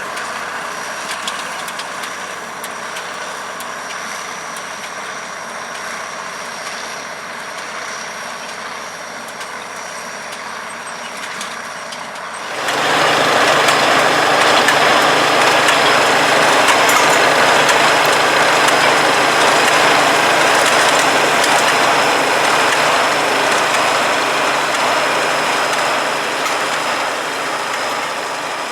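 International 1256 Turbo tractor's turbocharged six-cylinder DT407 diesel running steadily while it pulls a 430 small square baler through straw, with a steady high whine above it. About twelve seconds in the sound jumps suddenly louder, then eases off a little near the end.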